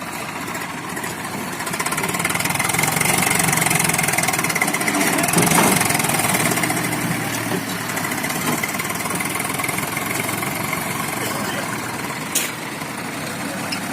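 Tractor diesel engine running steadily, getting louder for a few seconds about two seconds in, with one sharp click near the end.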